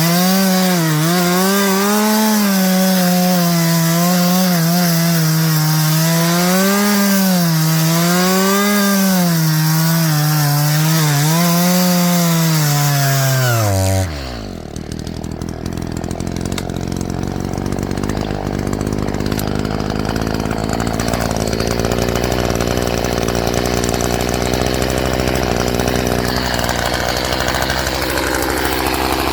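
Echo two-stroke chainsaw running at high revs, its pitch wavering up and down as it saws through wood. About halfway through the throttle is let off: the pitch drops sharply and the engine settles to a steady idle.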